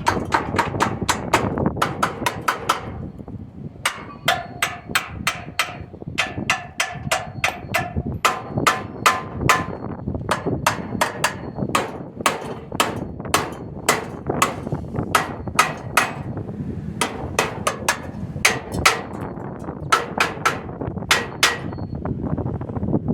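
A hammer striking metal repeatedly, about two to three blows a second, the metal ringing after many of the blows. There are two short pauses in the hammering.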